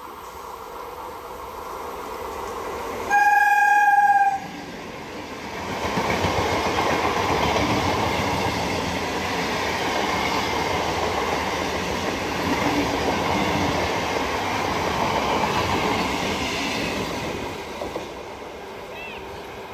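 BEML stainless-steel EMU local train sounds its horn once, a single steady note lasting about a second. It then passes at speed with a steady rumble and wheel clatter on the rails for about ten seconds, fading near the end.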